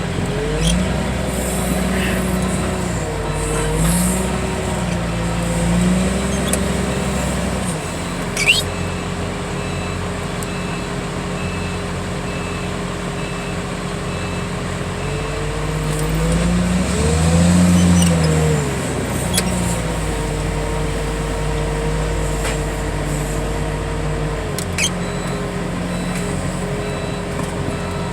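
Diesel engine of heavy yard equipment running under load, revving up and down repeatedly, highest about two-thirds of the way in. A few short metallic clanks are heard.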